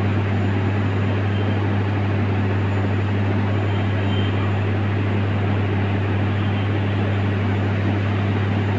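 Steady drone of the Singasari passenger train: a constant low hum under an even rush of noise, unchanging throughout.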